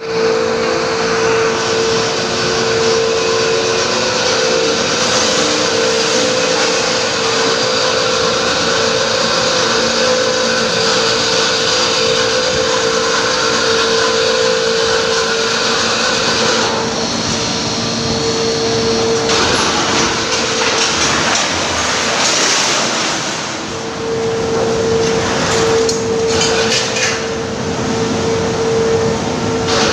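Loud, steady industrial machinery noise, with a constant high hum that drops out for a few seconds past the middle, and a few knocks near the end.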